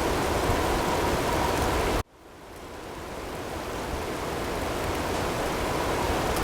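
Recorded blizzard sound of wind-driven snow and hail as a steady rushing noise, which cuts out abruptly about two seconds in and then fades back up gradually over the next few seconds, as at a loop point in the recording.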